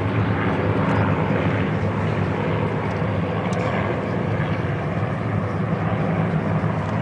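Propeller aircraft engines running steadily in flight overhead: a continuous low engine note with a rushing spread above it.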